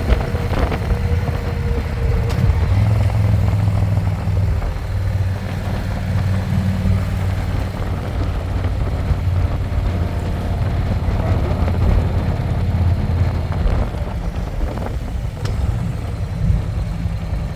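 Harley-Davidson Electra Glide's V-twin engine running steadily under the rider and passenger.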